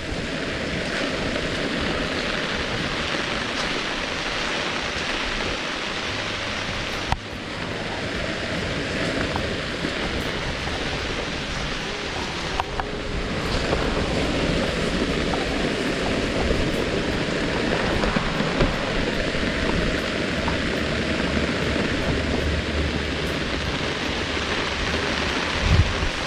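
Steady rain falling, a dense even hiss with scattered drops ticking close by.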